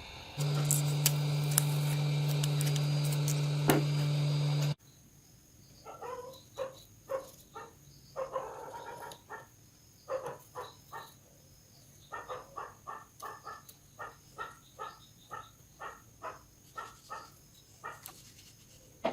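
A loud steady electrical hum with a few sharp clicks, cutting off abruptly after about four seconds, followed by a long series of short high chirps, roughly one or two a second.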